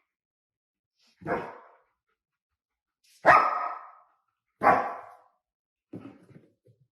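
A dog barking: three loud single barks spaced well apart, then a softer, broken-up sound near the end.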